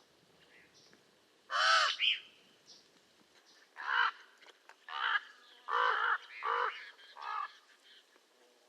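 Common raven calling: one loud, harsh croak about a second and a half in, then a run of five shorter croaks from about four seconds on.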